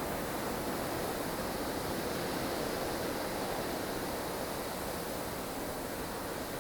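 Howling snowstorm wind: steady, dense noise with a slow swell, no gusts standing out.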